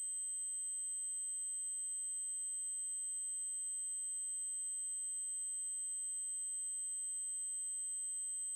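Steady, unbroken high-pitched electronic test tone: an 8192 Hz triangle wave held at a constant pitch and level.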